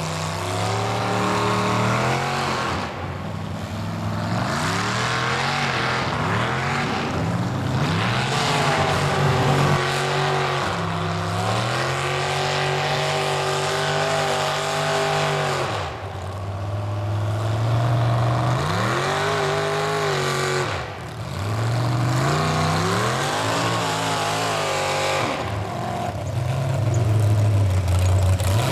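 Mud truck's engine revving hard, its pitch climbing and falling again and again as the throttle is worked, with brief lifts off the throttle about three, sixteen and twenty-one seconds in.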